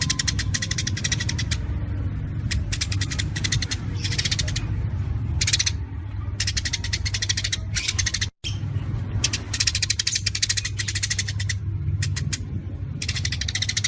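Songbird 'tembakan' song: bursts of very rapid, sharp repeated notes, one after another with short pauses, over a steady low hum. The sound drops out for an instant a little past the middle.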